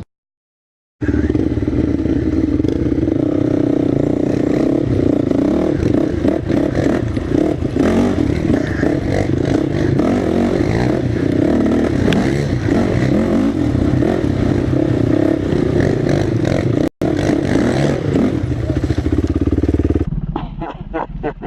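Off-road vehicle engine running hard and loud, steady under a rough, clattering surface noise, with a brief cutout about three-quarters of the way through. Near the end it gives way to a quieter, rapid pulsing.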